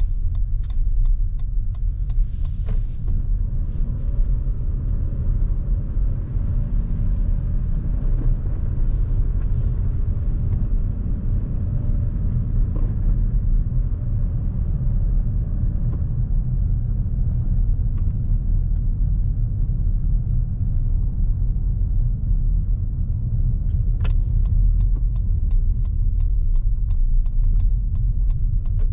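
Steady low road and tyre rumble inside the cabin of a Lexus NX350h hybrid SUV driving on winter roads. A turn-signal indicator ticks a few times a second near the start and again near the end.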